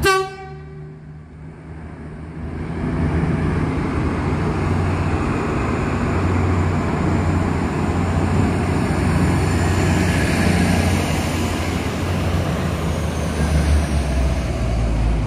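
V/Line VLocity diesel railcar set arriving at the platform: a short horn toot at the very start, then the low drone of its diesel engines and the rumble of wheels on rail build over the first few seconds and hold steady as the cars pass close by.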